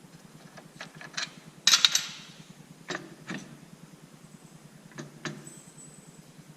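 Hand tools being worked on a tractor part: a scattering of sharp clicks and knocks, the loudest cluster about two seconds in, over a faint fast steady ticking.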